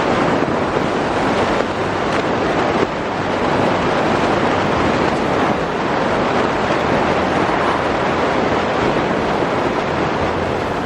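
Steady rushing road and wind noise of a vehicle on the move, with a low steady hum underneath.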